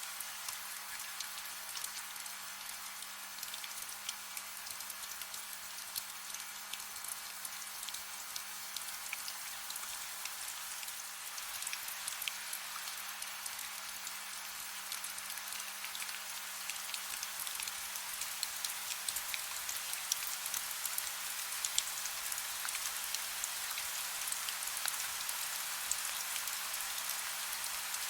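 Soft rain falling steadily: a dense hiss of rain with many separate drop ticks on a surface, growing slightly louder in the second half.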